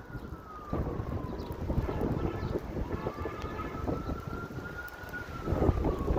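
Outdoor tornado warning siren wailing in a slow sweep, its pitch falling, rising over a couple of seconds, then falling again near the end, under wind buffeting the microphone.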